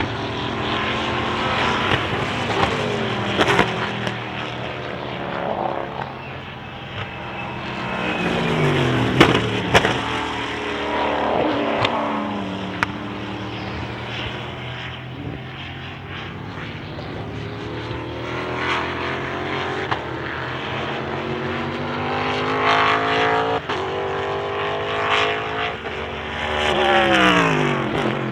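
Several endurance race cars running past on the circuit, their engines at high revs, with overlapping engine notes that rise and then drop in pitch as each car goes by. The loudest pass comes near the end.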